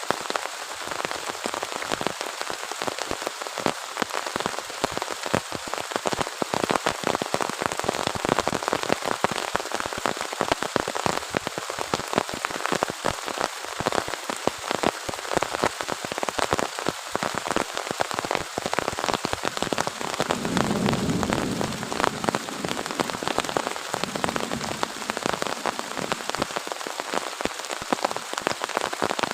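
Heavy rain falling steadily, with many sharp drops striking a surface close by. A brief low rumble swells up about two-thirds of the way through.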